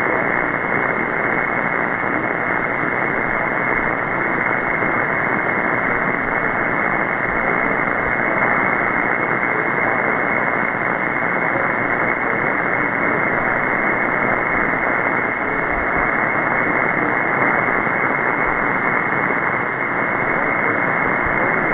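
Steady hiss of shortwave static from a receiver tuned to 14.325 MHz in upper sideband, with no station coming through. The noise fills only the narrow sideband audio range and cuts off sharply above the voice band, under poor band conditions.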